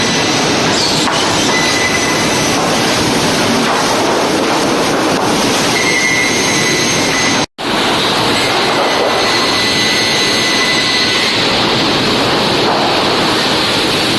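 Sawmill production-line machinery running: a loud, steady mechanical din with faint high whines coming and going. It breaks off for an instant about seven and a half seconds in.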